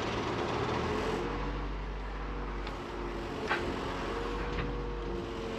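Komatsu PC56 mini excavator's turbocharged diesel engine running steadily while the hydraulics are worked, with a faint whine that rises and falls gently and a few light clicks.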